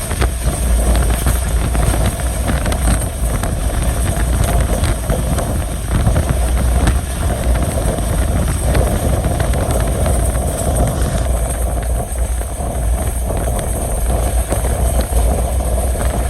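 A moving train, heard on board: a steady loud rumble with scattered clicks from the wheels running over the track.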